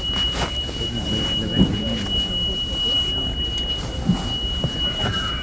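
A steady high-pitched electronic alarm tone held at one pitch without a break, over the low rumble of a subway train and station.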